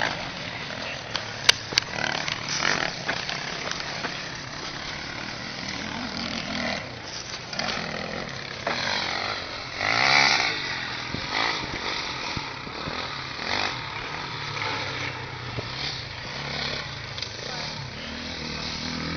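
Dirt bike engines on a motocross track, revving up and down as the bikes ride, loudest about ten seconds in.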